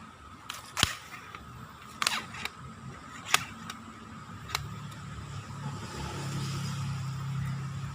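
Four sharp knocks spread over about four seconds, which the angler takes for someone throwing stones at him. A low steady hum builds in the second half.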